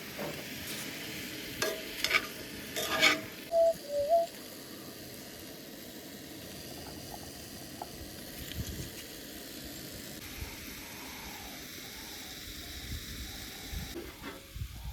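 Food sizzling steadily in a frying pan on a camp stove, with a few loud metal clinks and knocks in the first few seconds as it is stirred and turned.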